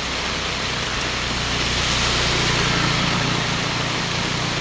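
A motor vehicle's engine running steadily with a low hum, over the steady hiss of heavy rain.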